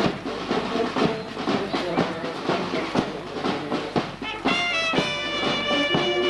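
Brass band playing a march, a drum beating about twice a second. About four and a half seconds in, long held brass chords come in.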